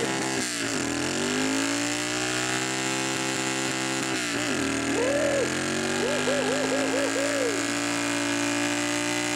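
Motorcycle engine held at high revs through a circling rear-tyre burnout. The revs sag and climb back about half a second in and again at around four and a half seconds. From about five seconds a run of short rise-and-fall wobbles in pitch rides on top.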